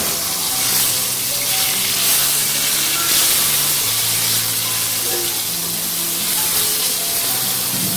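Eggplant slices sizzling steadily as they shallow-fry in hot oil in a pan. Quiet background music with held notes runs underneath.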